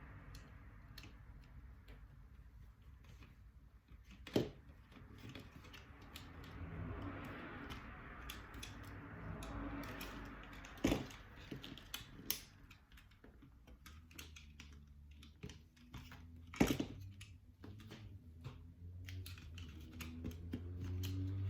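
Scattered light clicks and taps of small plastic parts and tools being handled during repair work on an SG907 drone, with three sharper clicks spread through, over a faint low hum.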